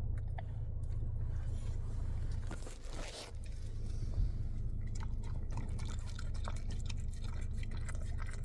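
Someone chewing and crunching a mouthful of food, with scattered small wet clicks and smacks, over a steady low hum.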